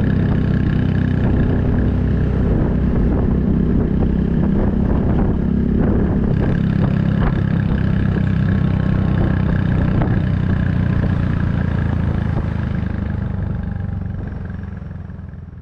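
Honda Super Cub 110's single-cylinder engine running at speed through an aftermarket Kitaco mini Cabton muffler, a steady exhaust note that fades out near the end.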